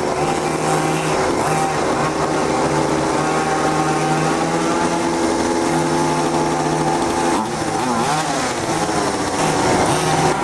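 Small two-stroke petrol engine of a large-scale RC car running steadily, its note shifting up and down as the throttle changes about three-quarters of the way through.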